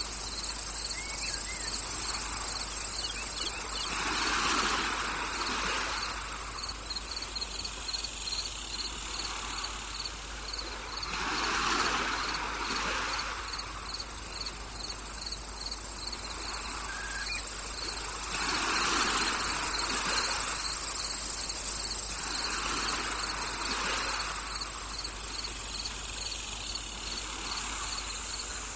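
Insect chorus: a steady high-pitched trill, with a cricket chirping at about three chirps a second. Under it a softer, broader noise swells and fades every five to seven seconds.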